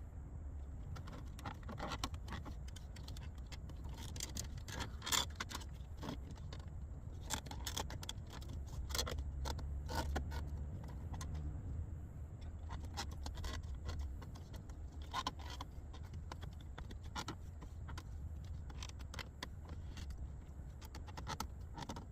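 Scattered light clicks, taps and scrapes of hands working plastic dash trim and a light strip into place, over a low steady rumble.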